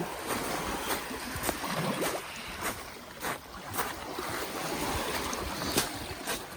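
Lake Michigan waves washing over a rocky shore, with wind on the microphone and scattered sharp knocks.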